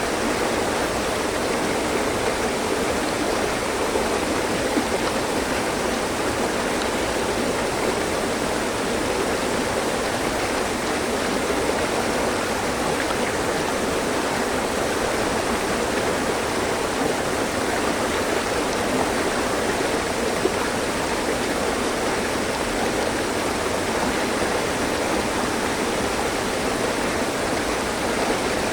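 Mountain stream: water running and splashing over rocks in a steady, unbroken rush.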